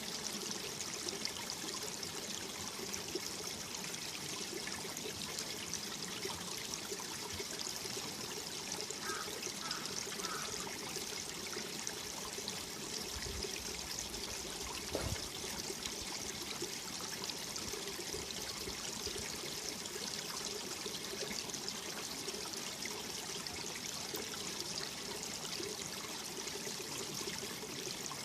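Mountain valley stream running steadily over rocks, a continuous trickling and pouring of water, with a faint brief knock about halfway through.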